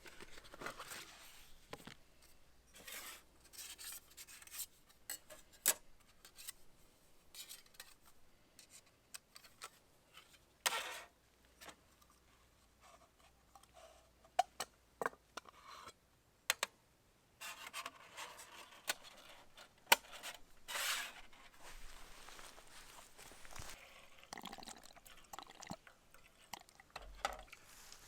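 Camp gear being handled by hand: scattered small clinks and taps with short rustles, and no steady running sound.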